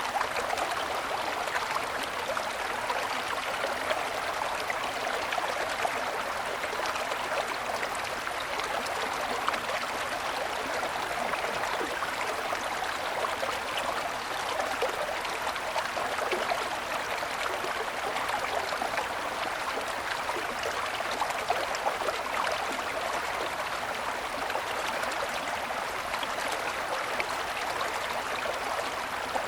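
Small mountain stream flowing and splashing over snow-covered stones, a steady babble.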